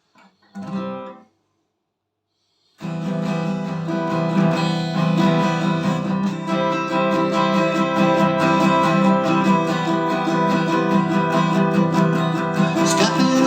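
Acoustic guitar strummed as a song intro, starting sharply about three seconds in, after a brief sound and a moment of silence.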